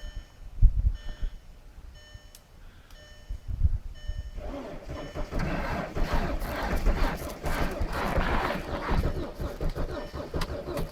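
A vehicle's electronic warning chime beeping about once a second. From about four seconds in, a diesel engine is cranked hard on its starter in extreme cold, with a fast pulsing churn that does not catch.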